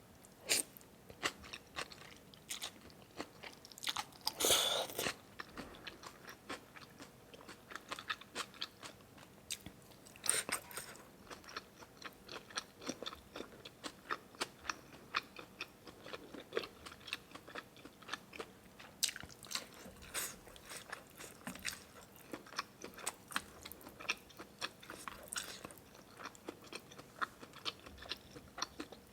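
Close-miked eating: a person chewing and biting, with many small crunchy clicks and a few louder bursts.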